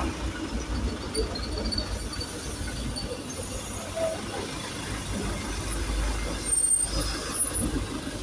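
A Trans Jogja city bus moving at low speed on a wet depot yard: a steady low engine rumble with tyre and road hiss, and a few short, faint high squeals, likely from brakes.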